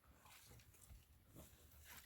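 Near silence, with only a few faint, scattered soft sounds.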